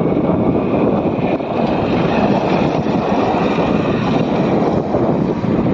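Strong pre-rain wind rushing and buffeting the microphone: a loud, continuous roar that rises and falls slightly.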